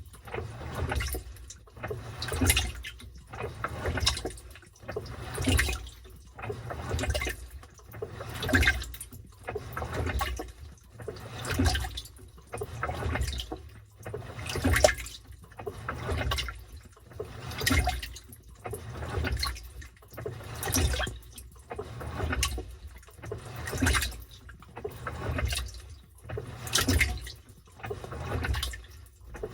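Washing machine agitating a load in water: the water sloshes back and forth in a regular swish about every second and a half.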